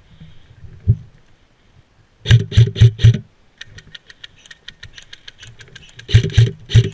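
Airsoft gun firing two short bursts close to the microphone, about five shots then about four, with faint rapid clicking of further-off fire in between. A single sharp knock comes about a second in.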